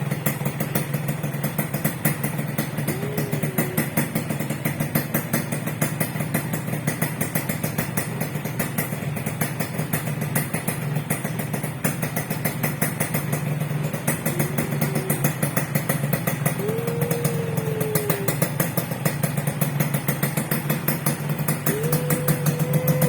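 A 2000 Suzuki RGR's two-stroke single-cylinder engine idling through its exhaust with a steady, rapid pulsing beat, getting a little louder near the end.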